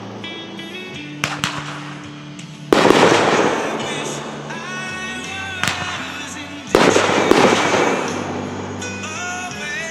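Fireworks bursting: two loud booms about four seconds apart, each fading away over a second or two, with a few sharper cracks between them. Music plays underneath.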